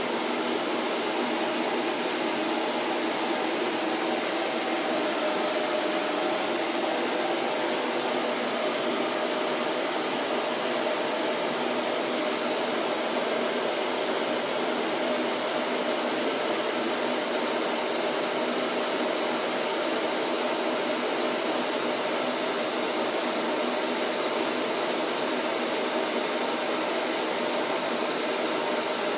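Vacuum cleaner running steadily, an even whooshing noise with a faint steady hum in it.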